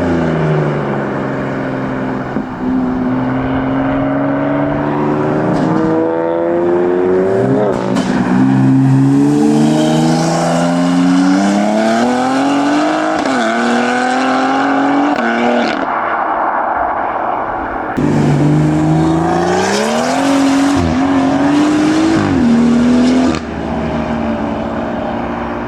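Modified car engines accelerating hard, the engine note climbing and dropping back at each gear change, about three rising runs in the first half. Several cars are heard in turn, with abrupt changes between them about two thirds of the way in and again near the end.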